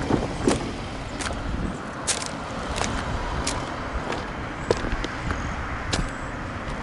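Steady rumble of road traffic, with a scattering of sharp, irregular clicks.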